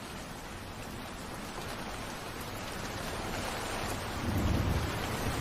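Steady rain falling, slowly swelling in level, with a brief low rumble of distant thunder about four seconds in.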